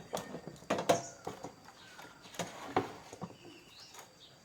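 A handful of sharp clicks and knocks from hard objects being handled, uneven in spacing; the loudest come about a second in and just before three seconds.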